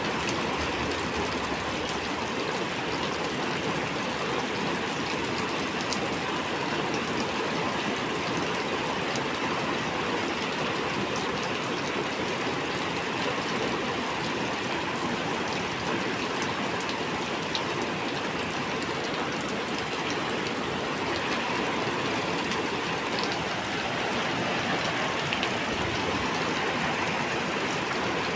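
Heavy rain pouring steadily, with a few faint drop ticks.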